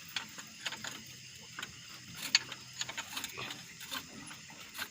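Irregular metallic clicks and ticks of hand tools working on an XCMG excavator's Racor fuel filter as it is closed up, with one sharper click about halfway through.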